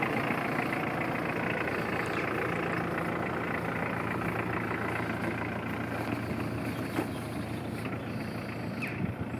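2001 Mitsubishi L200 pickup's diesel engine idling steadily.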